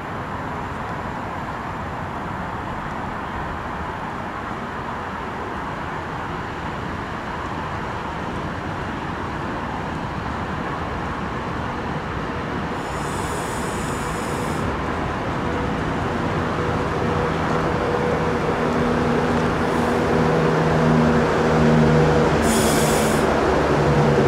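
Class 390 Pendolino electric train drawing into the platform and slowing, its rumble on the rails growing steadily louder. A low hum joins in the later seconds. Two short high squeals come about halfway through and again near the end.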